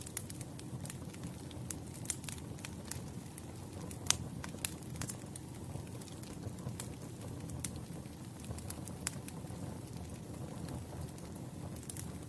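Wood campfire burning: a steady low rumble of flames with frequent sharp crackles and pops from the burning logs, the loudest pop about four seconds in.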